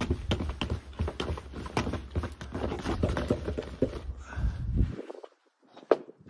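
Electric drill with a mixing paddle churning a batch of mortar in a bucket: a steady motor hum under rapid scraping and clatter that stops abruptly about five seconds in, as the mix is judged done. A sharp knock follows near the end.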